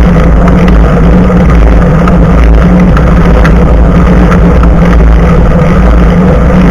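Steady wind buffeting and road rumble on the microphone of an action camera mounted just above a bicycle's front tyre during a ride, very loud, with frequent small knocks from bumps and mount rattle.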